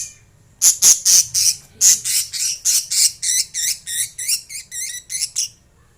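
Lovebirds calling in a rapid run of loud chirps, roughly three or four a second, starting about half a second in and stopping shortly before the end. The first calls are harsh and scratchy; from about halfway they turn into chirps that bend up and down in pitch.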